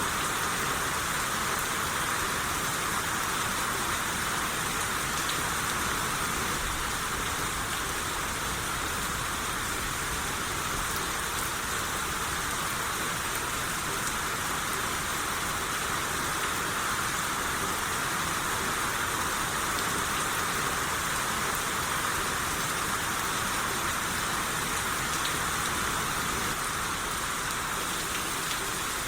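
Steady rain shower, an even hiss of rainfall with faint scattered drop ticks, unchanging throughout.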